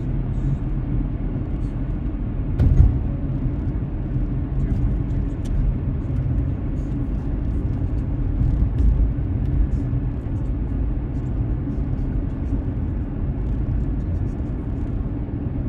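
Car driving, heard from inside the cabin: a steady low rumble of road and engine noise, with a single louder thump just under three seconds in and faint scattered ticks above it.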